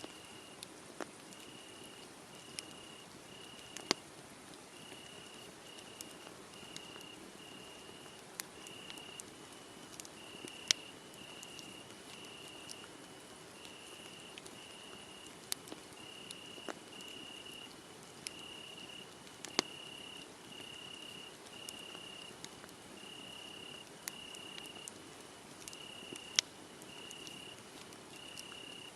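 Wood fire crackling with scattered sharp pops, a few of them louder, over crickets chirping steadily at about one and a half chirps a second.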